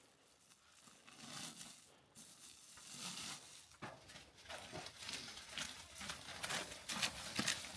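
Irregular crunching steps in snow, faint and sparse at first, then louder and quicker toward the end.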